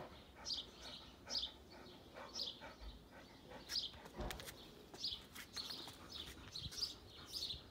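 Small birds chirping: short, high, repeated chirps, roughly one or two a second, faint. A few soft clicks and a low thump about four seconds in.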